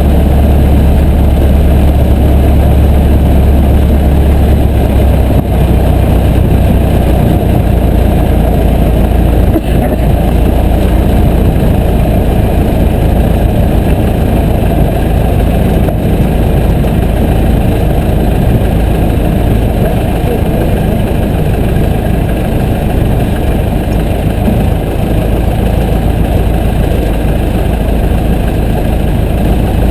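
Piper J3 Cub's engine and propeller running steadily, heard from the cockpit. The low drone changes a little in pitch about five to seven seconds in.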